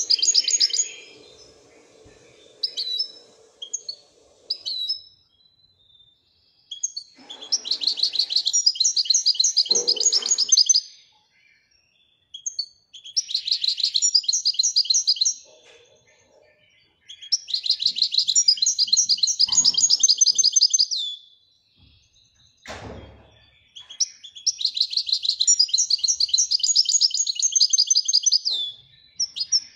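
Moroccan goldfinch (European goldfinch) singing in the song style breeders call Widaniya: four long phrases of fast, high, rapidly repeated trilled notes, a few seconds each, with short pauses and single chirps between. One sharp knock about three quarters of the way through.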